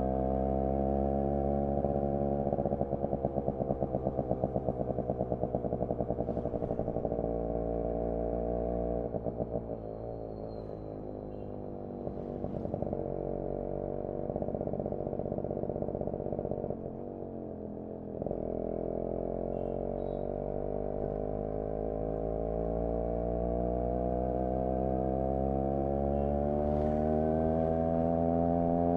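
Yamaha RX 100's single-cylinder two-stroke engine heard from the saddle while riding: the exhaust note falls as the throttle is rolled off, stuttering unevenly for several seconds, runs low and quieter, then climbs steadily over the last ten seconds as the bike accelerates.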